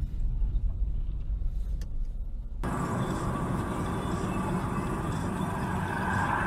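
Low rumble of a car on the road, then an abrupt change about two and a half seconds in to a louder, fuller traffic noise.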